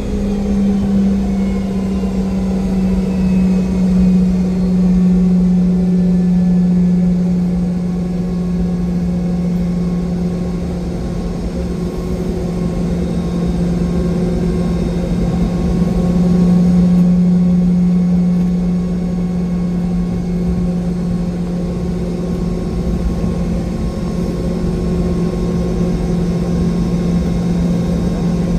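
Cabin noise aboard a Boeing 717-200: the steady drone of its rear-mounted Rolls-Royce BR715 jet engines, a strong low hum over a constant rumble, sagging slightly in pitch near the start.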